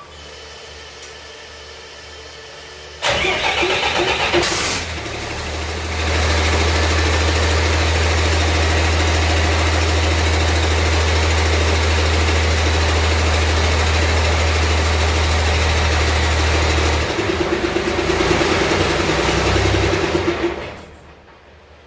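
A 5.9-litre Cummins 6BT inline-six diesel is cranked by its starter about three seconds in, catches and settles into a steady idle. About 17 seconds in the note changes, and a few seconds later the engine shuts off and runs down.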